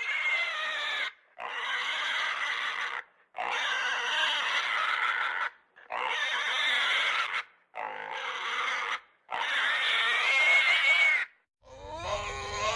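Pig squealing: six separate shrill cries, each one to two seconds long, with short silent gaps between them. Near the end a different animal call with a steadier pitch begins.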